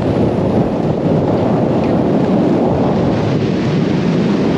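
Storm-force wind buffeting the microphone: a loud, steady low rumble.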